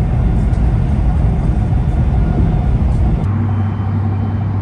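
Steady low rumble of a high-speed train running at speed, heard from inside the carriage. About three seconds in it changes to a steadier low hum.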